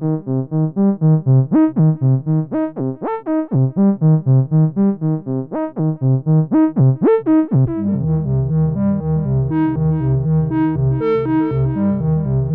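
Roland SE-02 analog monosynth playing a fast sequenced pattern of short notes, about six a second, some with quick upward pitch swoops. About three-quarters of the way in, it switches to another preset with a deeper, fuller tone and heavier bass.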